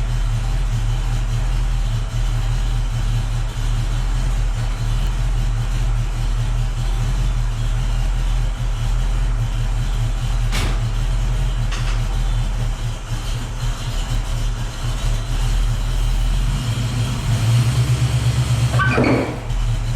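Car engine idling with a steady low rumble. It grows louder and pulses briefly near the end, and there is a single sharp click about halfway through.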